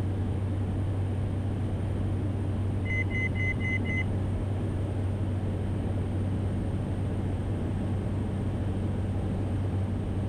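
Cessna Caravan's PT6A turboprop engine and propeller drone steadily in the cockpit. About three seconds in, a quick run of about six short beeps sounds over it.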